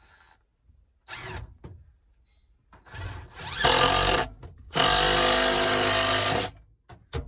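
Power drill driving screws: a short burst of the motor, then two longer steady runs, the second the longest, ending in a click.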